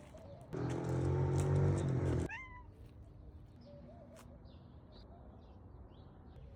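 A cat gives one loud, drawn-out cry lasting nearly two seconds, followed straight after by a few short high meows that fall in pitch, then faint quieter mews.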